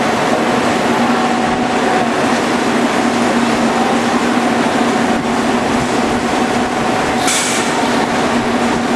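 Flash butt welding machine for steel pipe running: a loud, steady electrical hum over dense noise, with a brief hiss about seven seconds in.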